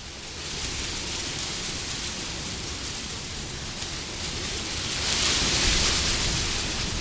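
Wind blowing as a steady hiss that swells into a louder gust about five seconds in, then eases.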